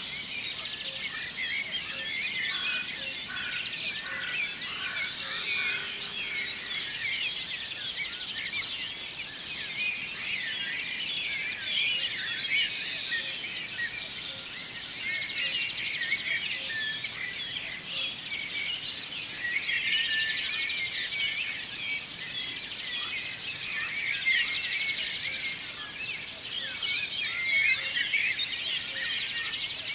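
Dawn chorus: many songbirds singing at once, a dense, overlapping mix of short chirps and trills that never pauses.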